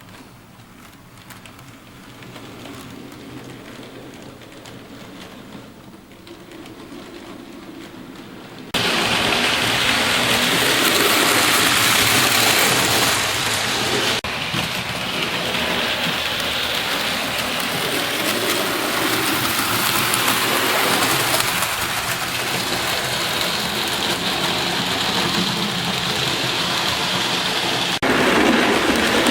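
Model steam locomotives running on a model railway layout: a faint motor hum at first, then at about nine seconds a sudden jump to a loud, steady rattling hiss of wheels running on the track close by.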